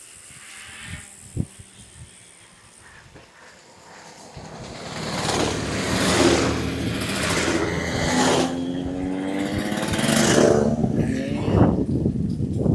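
Motorbike coming up and passing close by on the path. It is faint at first, grows loud about four seconds in, and its engine note rises and falls as it revs past.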